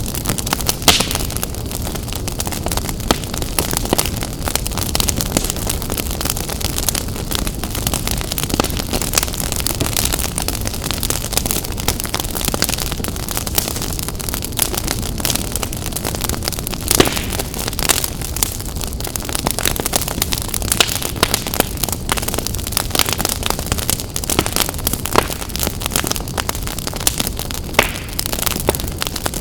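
Wood fire in a fireplace crackling, with a constant patter of small snaps and a few louder pops over a steady low rumble of the flames.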